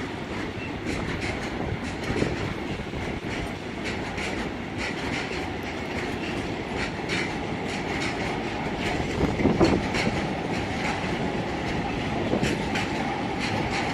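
Freight train wagons rolling past, with a steady rumble and repeated clacks of wheels over rail joints.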